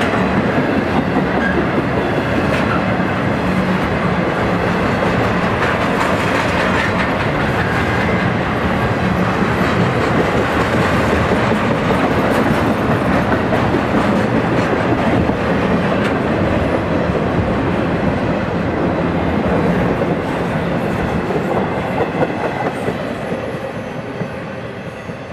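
BNSF intermodal freight train's flatcars, loaded with highway trailers, rolling past close by: a steady noise of wheels on rail with clickety-clack over the joints, fading away near the end as the last car passes.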